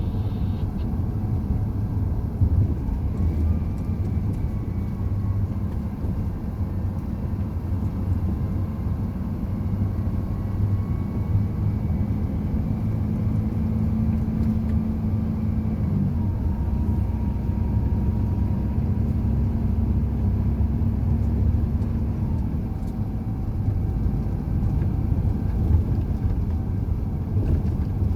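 Heavy truck driving on the road: a steady low engine drone and tyre rumble, with the engine's hum shifting in pitch several times as its speed changes.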